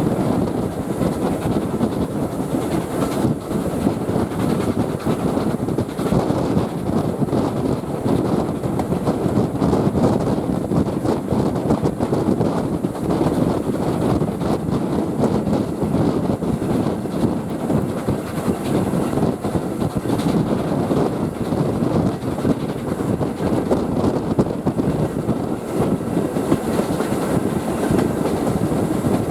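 A heritage railway train running along the track, giving a steady rumble of wheels on rails.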